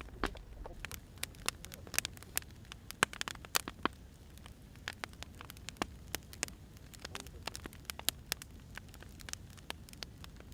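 Wood fire crackling, with irregular sharp pops of burning firewood over a low steady rumble.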